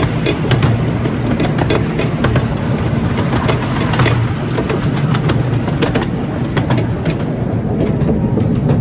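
Miniature narrow-gauge steam train running, heard from the open passenger car behind the locomotive: a steady rumble of the wheels on the track with many irregular clicks and knocks.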